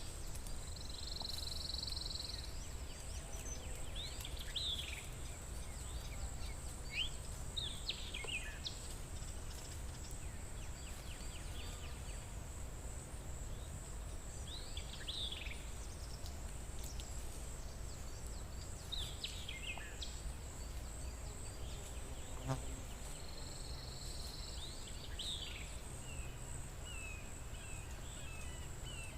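Forest ambience: birds sing short, falling whistled phrases every few seconds over a steady high-pitched insect drone and a low steady rumble. A single soft click sounds near the middle.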